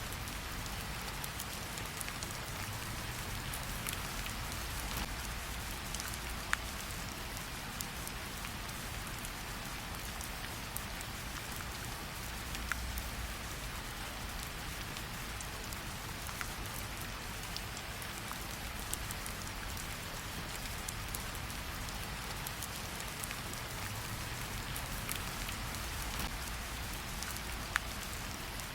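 Steady rain hiss with a fireplace crackling under it, and a few sharper pops standing out, three times.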